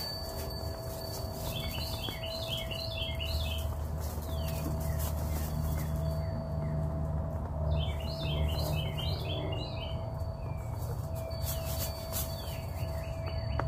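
A songbird singing twice, each song a quick run of repeated chirps lasting about two seconds, over a steady low rumble.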